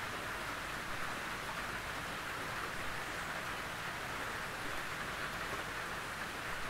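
Gentle rain falling steadily on a tin roof, an even patter without thunder.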